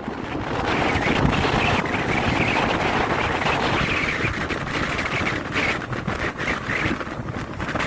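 Sea waves washing onto the beach at high tide, a continuous rushing surf with swells of hiss every second or two, and wind buffeting the microphone.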